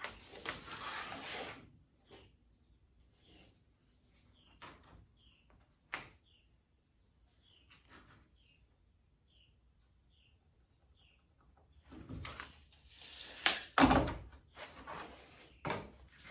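Workbench handling noises: a brief rubbing and scraping at the start, then a quiet stretch with faint high chirps about twice a second. From about twelve seconds in come a run of knocks and clatter, the loudest about two seconds later.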